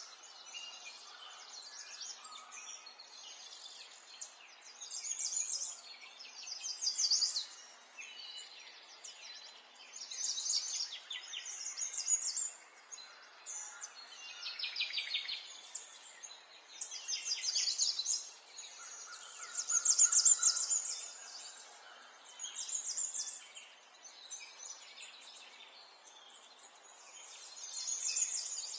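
Birds singing: repeated bursts of rapid high chirps every second or two, over a faint steady background hiss.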